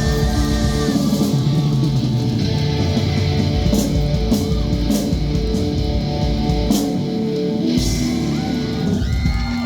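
Live rock band playing: distorted electric guitar holding notes over drums, with several sharp cymbal-like hits between about four and eight seconds in.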